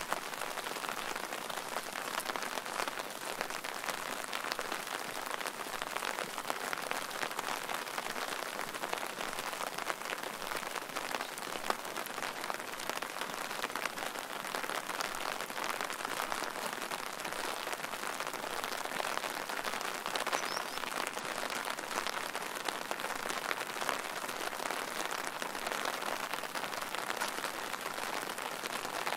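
Steady rain falling: a dense, even patter of raindrops.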